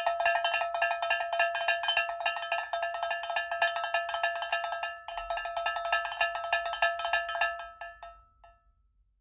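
Rapid, evenly repeated metallic strikes, several a second, each ringing at the same few fixed pitches like a cowbell-type percussion. There is a brief break about five seconds in, and it fades out near the end.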